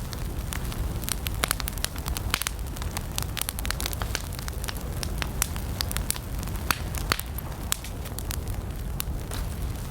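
Wood fire burning with frequent sharp crackles and pops over a steady low rumble of flames.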